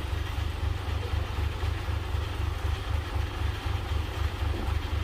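Heavy diesel vehicle engine running, a steady low rumble.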